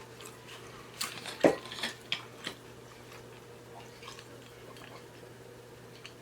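A few light clicks and taps of tableware in the first couple of seconds, the loudest about a second and a half in, then a quiet stretch.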